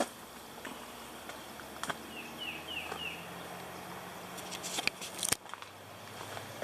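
Outdoor trailhead sounds: scattered steps and gear clicks over a faint low hum, with a bird giving four quick falling chirps about two seconds in. A sharp click a little after five seconds is the loudest thing.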